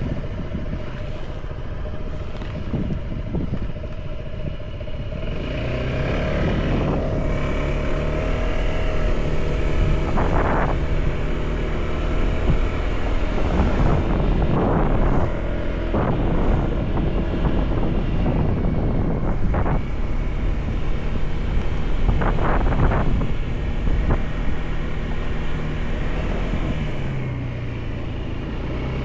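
Motorcycle engine running on the move, its pitch rising and falling with the throttle and growing louder about six seconds in.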